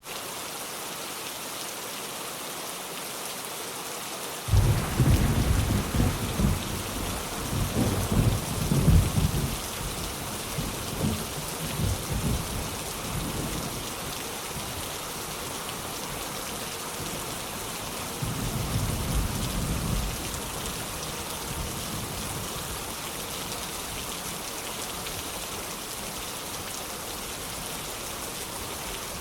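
Steady heavy rain, with a clap of thunder breaking in suddenly about four seconds in and rumbling on for about ten seconds, then a shorter second roll of thunder.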